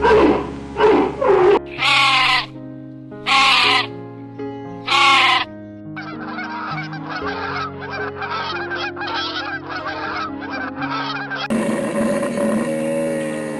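Farm animal calls over background music: several loud separate calls in the first five seconds, about a second and a half apart, then a quick run of short repeated calls, then one longer steady call near the end.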